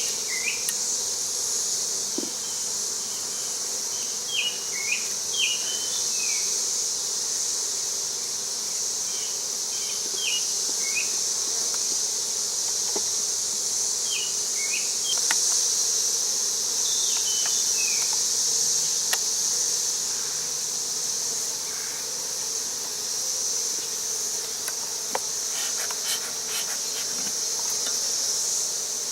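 Steady high-pitched insect drone over a low, even hum from a honey bee colony, with scattered short chirps in the first half.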